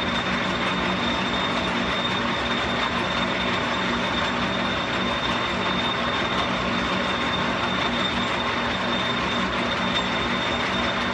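Metal lathe running steadily under power feed, taking the finishing pass on steel axle stock, its gear train clattering with a thin steady high whine.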